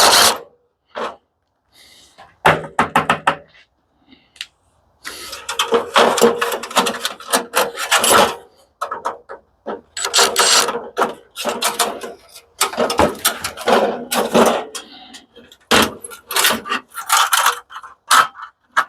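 Hand tools and loose metal parts clicking and clattering as an industrial coffee machine is dismantled, in quick runs of rattling with short pauses between.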